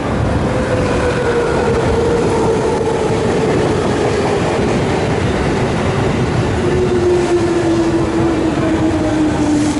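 Electric train running past a station platform at close range: a steady rumble of wheels on the rails, with a whine that falls slowly in pitch as it goes by.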